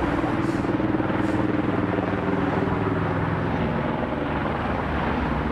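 Steady engine drone from the pursuit vehicle or aircraft, a continuous low hum with a constant pitch.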